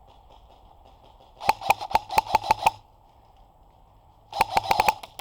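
Airsoft gun firing two rapid strings of shots, about a dozen sharp cracks over a second, then a shorter string of about six near the end.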